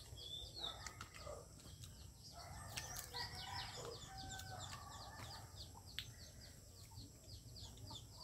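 Faint birds calling: a steady run of short high chirps, with a few longer calls about one and three seconds in.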